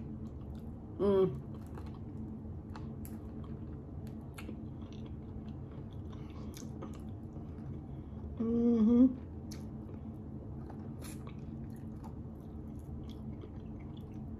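Close-up chewing and biting on barbecue fried chicken wings: small wet mouth clicks and smacks over a steady low hum. Two short voiced sounds from the eater, about a second in and again around nine seconds in, stand out as the loudest moments.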